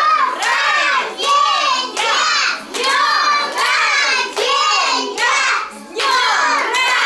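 A group of children chanting loudly in unison, high-pitched and rhythmic at about two calls a second, with hand clapping.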